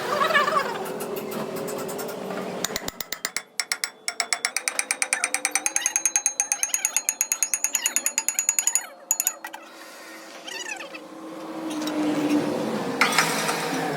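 Rapid, even metallic clicking, about seven clicks a second, lasting some six seconds, with a thin ringing over it. It is the ratcheting of a metal hand tool or mechanism during axle repair work.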